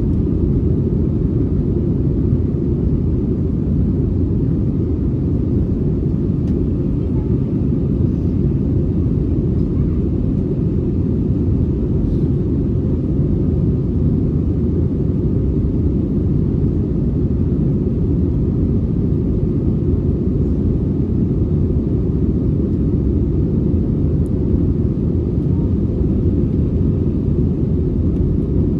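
Steady low rumble that holds an even level throughout, with no rise, fall or distinct events.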